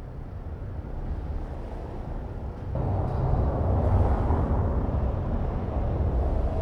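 Outdoor city ambience: a low, steady rumble that gets louder and fuller about three seconds in.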